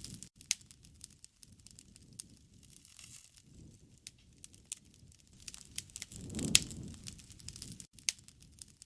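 Wood fire crackling, with irregular sharp pops and snaps throughout. About six seconds in, a low rushing swell builds and peaks with one loud pop, then dies away.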